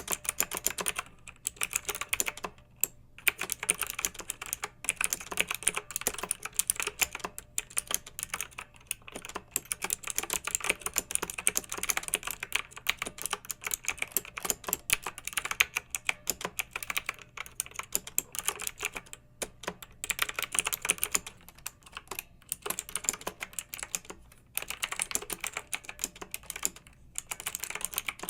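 Clicky mechanical keyboard being typed on steadily: quick runs of sharp keystroke clicks, broken now and then by short pauses of under a second.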